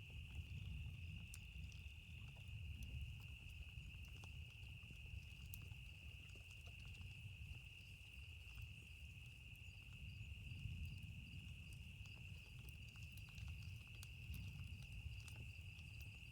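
A campfire crackling with scattered small pops, under a steady high-pitched trill of night insects and a low rumble of distant thunder.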